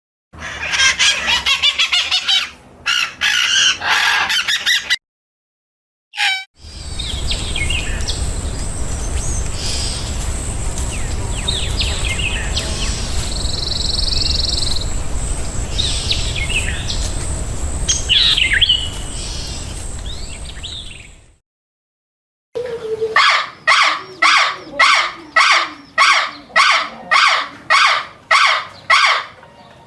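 Birds chirping and calling in several short clips joined with abrupt gaps of silence. The middle stretch has a steady high hiss and low rumble under the calls. The last clip is one bird calling over and over in an even series, about two calls a second.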